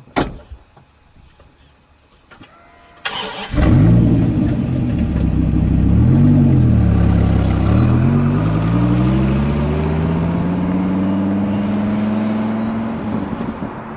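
Dodge Viper V10 engine cranked and started about three seconds in, revved once, then pulling with a steadily rising pitch as it accelerates. A sharp click comes just after the start.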